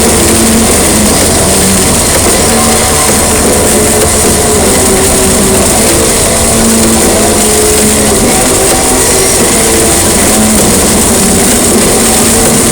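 Heavy rain pouring steadily as a loud, unbroken hiss, with slow held musical notes sounding underneath.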